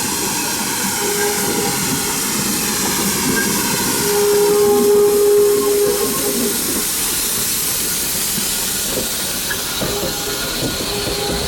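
GWR small prairie tank steam locomotive 5542 pulling a train in slowly, with a steady hiss of steam and a held tone that comes and goes. It is loudest around the middle.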